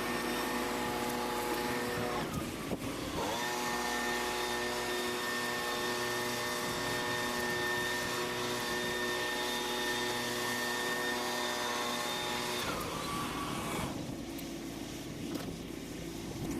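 An engine running steadily at high speed. Its pitch dips briefly and recovers about two to three seconds in, and it winds down about three-quarters of the way through.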